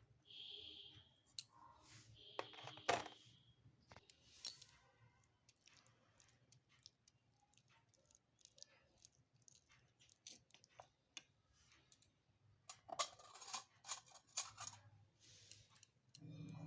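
Faint, scattered clicks and taps from small utensils being handled during miniature cooking, with a sharp click about three seconds in and a quick run of clicks near the end. Two short high-pitched squeaks come early on.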